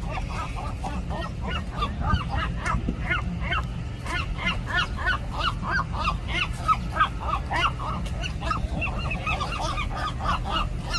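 Seagulls calling in a rapid run of short, harsh calls, several a second without let-up, as two gulls tussle over turf, over a steady low rumble.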